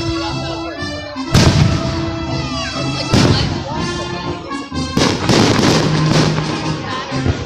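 Fireworks display going off: three loud bursts about two seconds apart, each trailing off into crackling, over background music.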